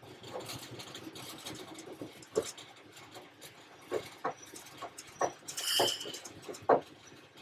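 Irregular clunks and rattles inside the cab of a Class 31 diesel-electric locomotive as it runs slowly with a little brake on, with a short high squeal a little before the end.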